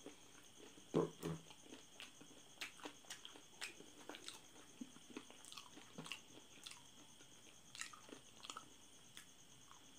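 Close-up eating sounds of chicken feet in sauce being bitten and chewed: irregular wet clicks and smacks, with two louder ones about a second in. A faint steady high whine runs underneath.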